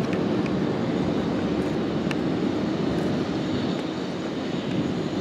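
Airplane engine noise, steady and then easing off near the end.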